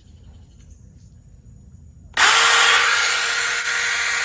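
SeeSii 6-inch battery-powered mini chainsaw switched on about halfway through: the motor and chain start suddenly and run steadily at full speed with a high, even whine.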